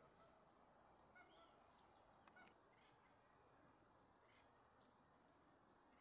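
Near silence: faint outdoor ambience with a few faint, short bird calls and chirps, mostly in the first half.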